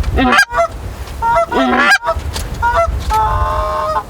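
Canada geese honking: a quick series of short honks, with one longer drawn-out call near the end.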